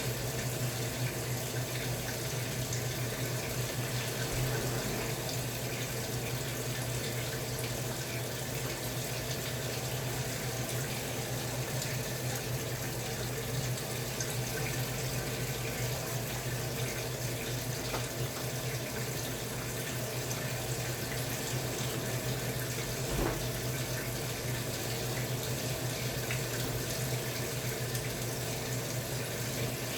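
Samsung Wobble 14 kg top-loading washing machine running with water in the drum: a steady rush of water over a constant low hum from the machine, with one small knock near the end.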